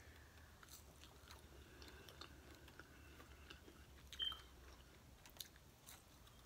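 Quiet chewing of french fries close to the microphone, with scattered faint mouth clicks. About four seconds in there is a brief high squeak.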